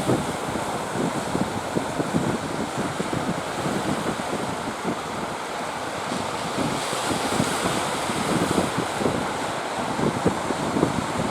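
Strong wind buffeting the microphone in irregular gusts, over a steady wash of sea surf.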